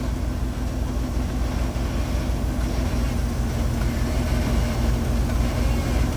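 Off-road 4x4 truck engine running steadily at low revs, a low, even engine sound with no revving.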